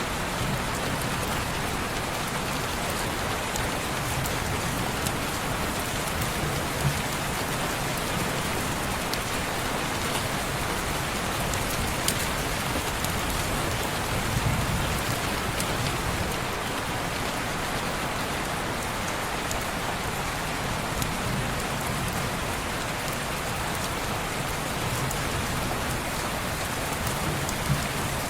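Steady rain falling on window glass, an even hiss with scattered sharp little ticks and a brief low rumble near the middle.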